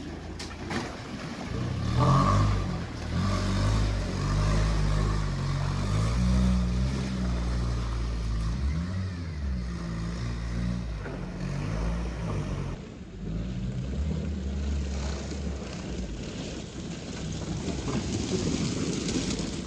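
All-terrain vehicle driving off, its engine running under load with the pitch rising and falling as it speeds up and slows. The engine drops back briefly about two-thirds of the way through.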